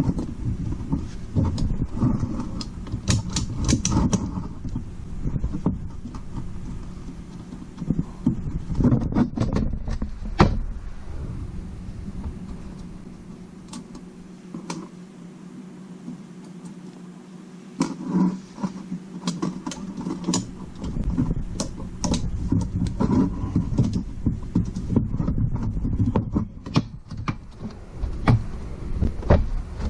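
Metal clicks, clinks and knocks from handling small parts while the valves, springs and retainers are taken out of a Honda 400EX cylinder head, with a steady low hum underneath. One sharp clink about ten seconds in is louder than the rest.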